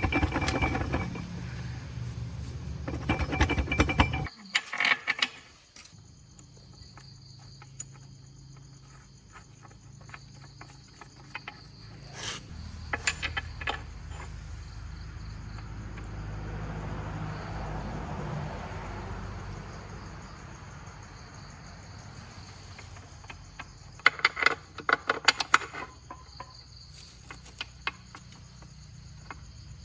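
Insects chirping steadily in a high, thin drone, with scattered clusters of sharp clicks and clinks, like metal parts or tools being handled. A louder low mechanical noise with rattling cuts off suddenly about four seconds in.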